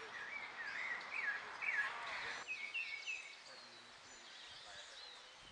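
Birds singing outdoors: a series of repeated up-and-down whistled phrases, loudest in the first couple of seconds, over a steady outdoor hiss. About two and a half seconds in the hiss drops away and higher, thinner chirps carry on.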